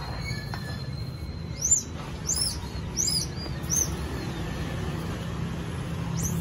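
Small birds chirping in short, repeated high notes over a steady low background rumble, with a single knock about two seconds in.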